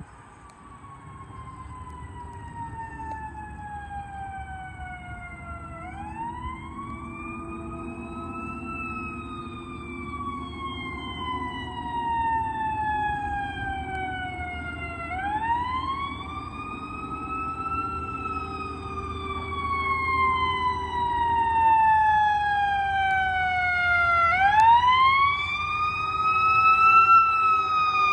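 Fire engine siren wailing in three long, slow cycles: each climbs in pitch over about three seconds, then slides down for about six, growing steadily louder. A low vehicle rumble sits beneath it.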